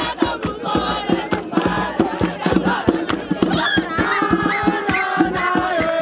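A crowd of voices chanting and singing together over quick, steady drum beats.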